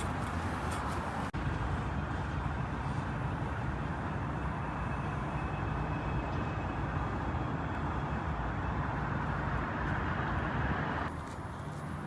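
Steady rumble of road traffic and passing vehicles, with an abrupt break about a second in and a drop in level near the end.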